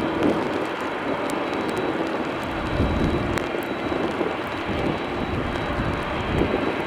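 Jet engines of a Boeing 747-400 airliner making a steady, even noise as it rolls along the runway after touchdown.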